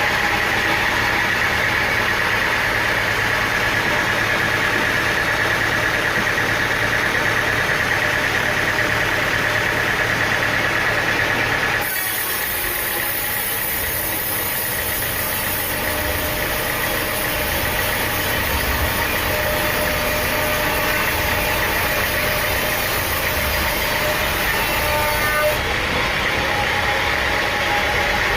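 Engine running steadily with a high whine over it. The sound changes abruptly about twelve seconds in, adding a hiss and losing the whine, and shifts back near the end.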